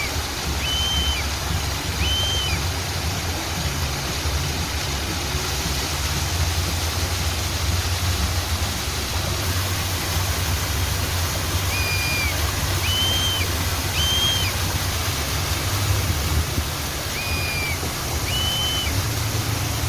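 Steady rushing of running water, with a bird whistling short, clear notes about a second apart in small groups: at the start, again about twelve seconds in, and near the end.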